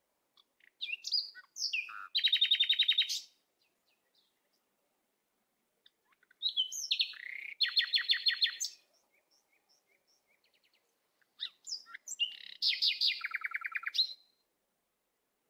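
Songbird singing three separate phrases, each a few short whistled notes running into a fast, high trill, with quiet gaps between the phrases.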